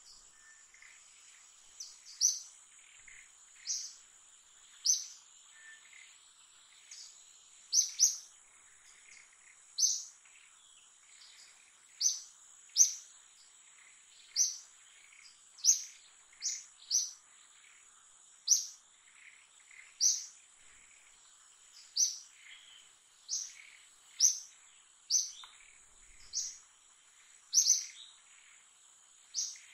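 A bird calling over and over in short, sharp, high chirps, about one every one to two seconds, over a steady high-pitched insect drone.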